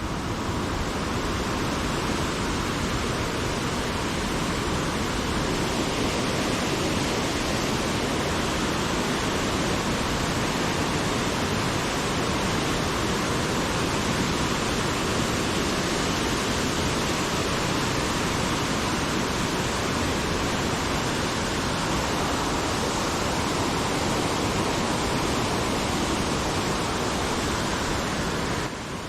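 Steady rushing of a mountain river swollen into a muddy flood torrent after a typhoon.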